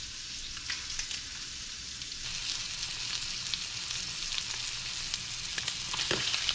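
Snakehead fillets frying in butter in a pan: a steady sizzling hiss dotted with small pops and crackles, growing louder about two seconds in.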